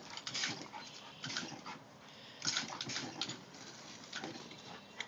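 Chocolate Labrador puppy drinking and snapping at a hose's water spray: irregular short wet snuffling and splashing bursts, a second or so apart.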